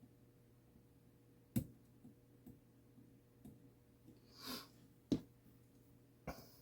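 A mantel clock movement clicking sharply a few times at uneven intervals while it is handled and adjusted, with a brief rustle in the middle. The clicks do not form a steady tick: the movement is not yet running in beat.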